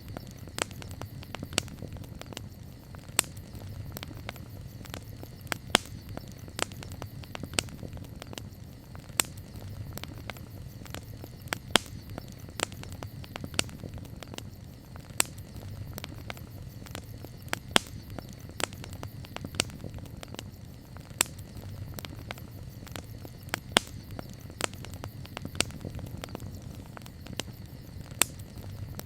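Wood fire crackling: irregular sharp pops and snaps, several a second, some much louder than others, over a low steady rumble.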